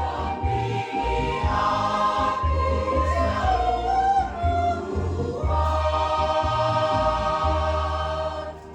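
Church choir singing a gospel hymn in long held chords, over a steady low bass. The singing ends just before the close.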